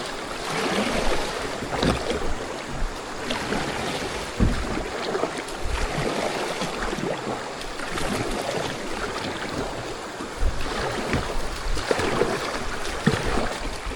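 Steady rush of creek water around a kayak, with a few scattered knocks against the boat.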